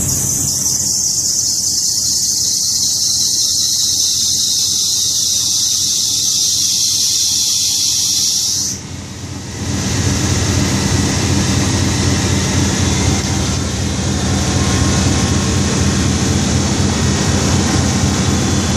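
1991 Toyota Corolla's engine running just after a cold start at thirty below, with a loud, high-pitched squeal that the owner takes for the power steering not being happy in the cold. The squeal cuts off suddenly a little under nine seconds in, and the engine keeps running steadily.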